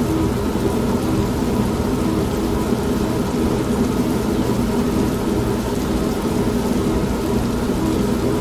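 Old washing machine running with a steady motor hum, mixed with steady rain and a low rumble of thunder.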